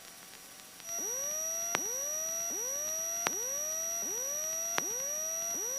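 An electronic alert tone in the aircraft's cockpit audio: a steady high tone with a rising chirp repeating about every three-quarters of a second. It starts about a second in.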